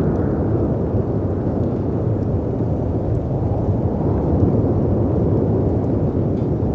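Steady low rumble of storm wind and sea surf, with a few faint crackles from a fireplace.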